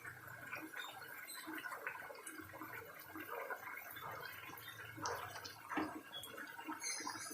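Chicken do pyaza curry simmering in a pan: irregular small pops and bubbling.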